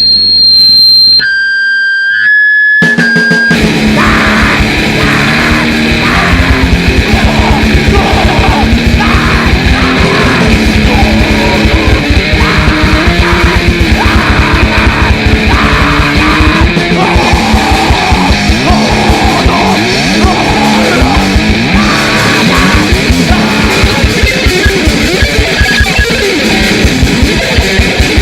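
Live grindnoise played on distorted electric guitar and drum kit. It opens with a few seconds of held, squealing guitar feedback tones. About three seconds in, the drums and guitar crash in with very fast, dense drumming under a wall of distorted guitar.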